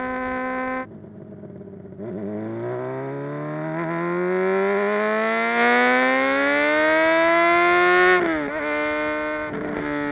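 Inline-four engine of a 2009 Honda CBR 600 RR through a Mivv X-Cone dual exhaust. It holds a steady note, goes quieter for about a second as it comes off the throttle, then gives one long rising pull of about six seconds as the revs climb. Near the end the pitch drops sharply and settles back to a steady note.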